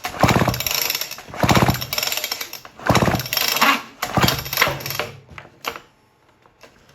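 Homelite Super XL chainsaw's recoil starter pulled about four times in a row, each pull a brief fast rattle of the engine turning over with the spark plug out. It never fires: there is no spark.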